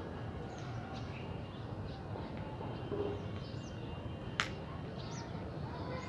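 Faint short chirps of small birds over a steady low background rumble, with one sharp click about four seconds in.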